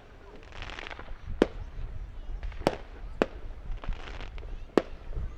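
Consumer fireworks and firecrackers going off: four sharp bangs a second or so apart, with two short hissing bursts between them.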